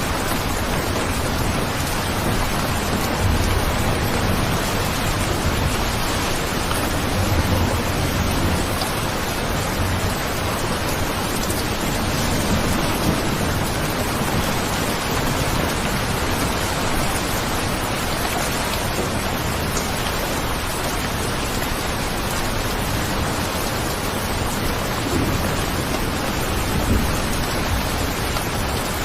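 Steady, heavy rain as an even hiss, with low rumbling swells now and then.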